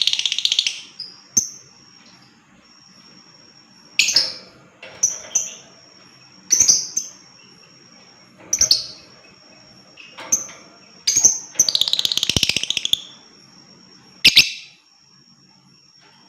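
Lovebird calling: sharp, high chirps every second or two, with two longer rapid rattling trills, one at the start and one about twelve seconds in.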